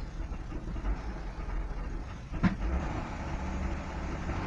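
Hyundai Tucson's 2.7-litre V6 engine running roughly and unsteadily at low revs in the cold, with a sharp click about two and a half seconds in. The uneven running means it will not hold idle on its own: the revs fall below 1000 unless the gas pedal is held.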